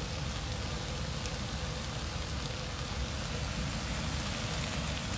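Mixed vegetables sizzling steadily in a hot frying pan as soy sauce is poured in.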